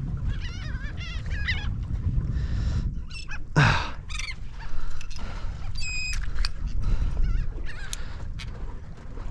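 Feeding seabirds calling again and again in short squawks, one louder call about three and a half seconds in, over a steady low rumble of wind on the microphone.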